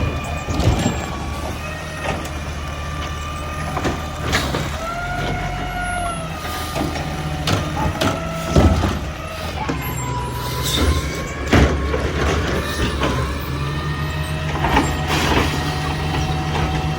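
Older Waste Management garbage truck packing: its diesel engine runs under load while a whine glides up and down in pitch. Several sharp knocks and air-brake-like hisses break in along the way.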